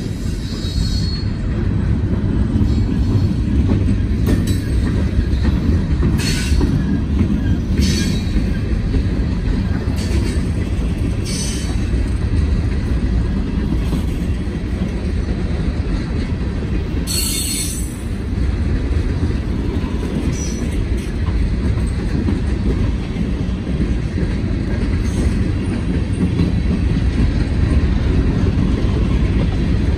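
Freight train cars rolling past with a steady low rumble of wheels on rail. Several brief, high wheel squeals cut in, the sharpest a little past halfway.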